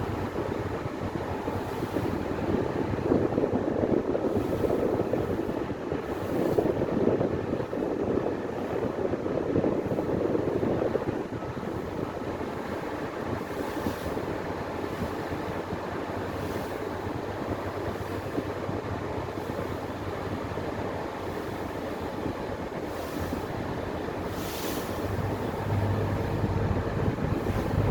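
Ferry engine running with a steady rumble and water rushing along the hull, with wind on the microphone. It is rougher and louder through the first part, and a low hum rises near the end.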